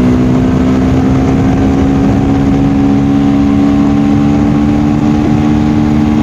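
KTM Duke 390 Gen 3's single-cylinder engine running steadily while the bike is ridden, its pitch rising slowly.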